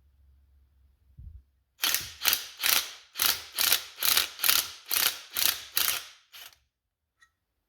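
A ratcheting tool working a fastener loose on a carburetor. It makes about a dozen short rattling bursts, two or three a second, then stops.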